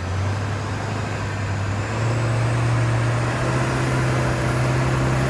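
Monster truck's engine running under load with a steady low drone and a rushing noise over it; the drone steps up in pitch about two seconds in as the engine picks up revs.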